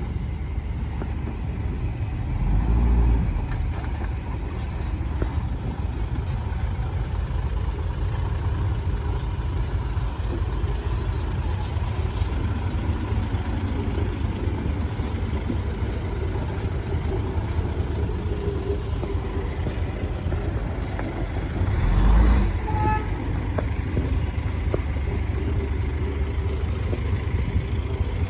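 Heavy diesel earthmoving machinery running steadily with a low rumble. The rumble swells louder about three seconds in and again near the 22-second mark, followed right after by a short high beep.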